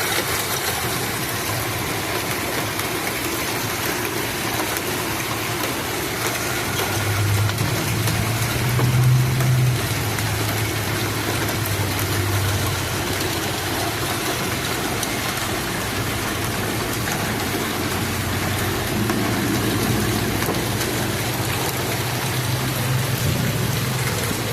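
Pea- to quarter-sized hail falling steadily with rain, a dense even pelting. A low hum rises under it from about seven seconds in and comes back near the end.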